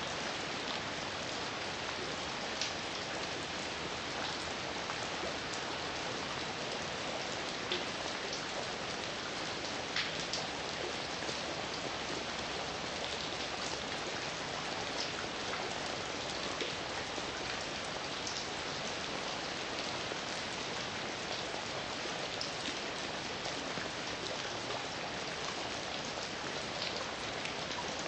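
Heavy rain falling steadily: an even hiss with scattered sharper drop impacts.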